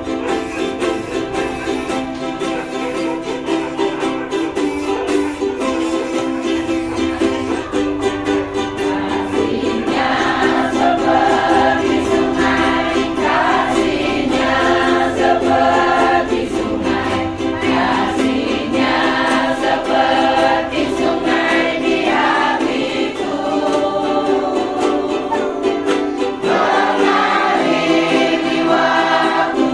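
Church choir singing a hymn with instrumental accompaniment. The first several seconds are the accompaniment alone, and the choir's voices come in about ten seconds in, louder.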